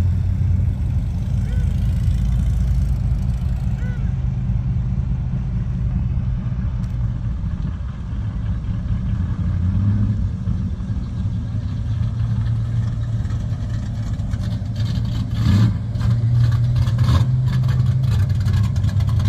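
Car engines running as cars idle and pull away, a steady deep rumble that gets louder about fifteen seconds in as a car comes closer.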